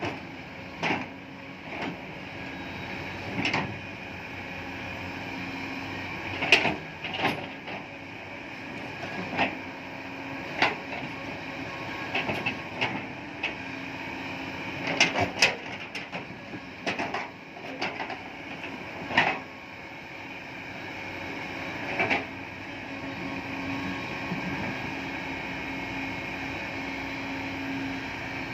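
Machinery running with a steady hum, with irregular sharp knocks and clanks over it.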